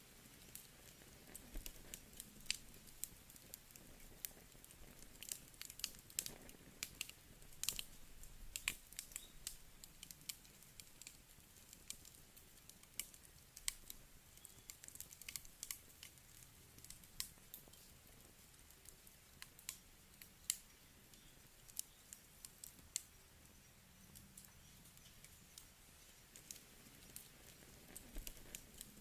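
Wood campfire crackling: irregular sharp pops and snaps, busiest in the first third, over a faint low hiss of the burning fire.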